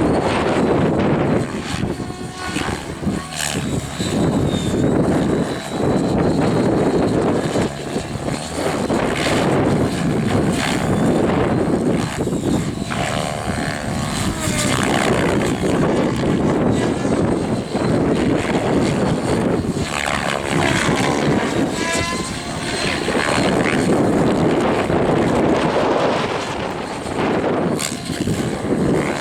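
Align 700E electric RC helicopter flying 3D manoeuvres on a 12S pack. The rotor and motor run loudly throughout, and their whine rises and falls in pitch as the helicopter swings through the manoeuvres.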